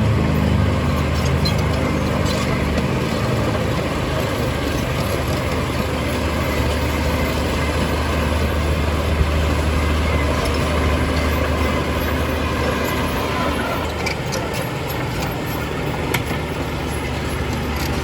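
Heavy diesel engine of earthmoving machinery running steadily under work, a deep continuous drone. A couple of sharp knocks stand out, one about halfway through and one near the end.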